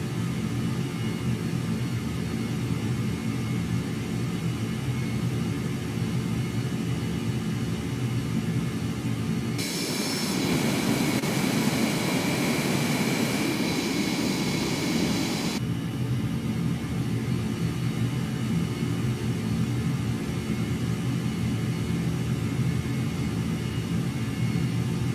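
Jet aircraft engine noise: a steady low rumble throughout. About ten seconds in, a louder hiss reaching high into the treble comes in abruptly, lasts about six seconds, and cuts off just as suddenly.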